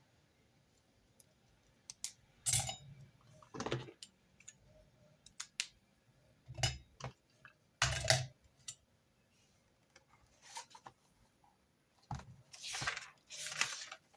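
Irregular clicks, taps and short rustles of paper and stationery being handled on a desk during note-taking, with two longer rustles near the end.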